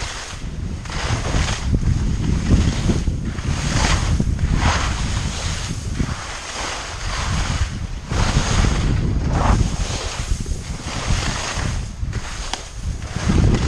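Wind buffeting the microphone as a skier descends, with skis scraping and hissing over spring snow in swells about every second, one for each turn.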